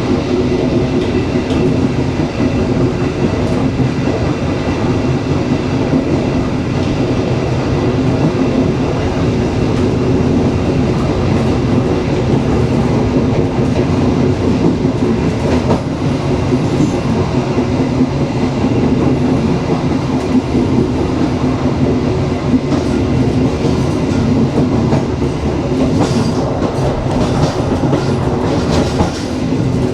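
Dharmawangsa passenger train running along the track: a steady loud rumble of wheels on rail with a droning hum. There is a run of sharper clicks and knocks near the end.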